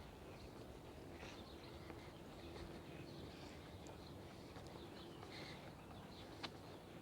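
Faint, scattered bird chirps over a low background hiss, with a steady low hum joining about a second in and one sharp click near the end.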